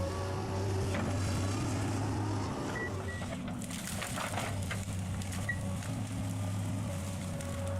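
Engine of a heavy stump-removal machine running steadily, with scattered knocks and crackles from the work.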